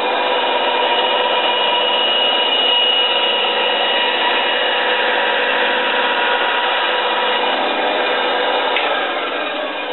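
Harbor Freight 9-inch benchtop band saw running and cutting a piece of wood fed by hand: a steady whine with sawing noise. Near the end a high tone drops out and the sound begins to fall away.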